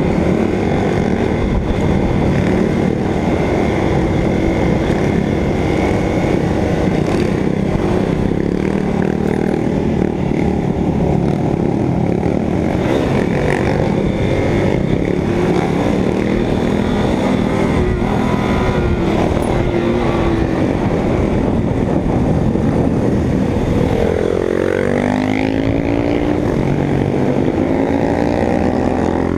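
Motorcycle engine running under way with heavy wind noise on the microphone; near the end the engine pitch climbs as it revs up.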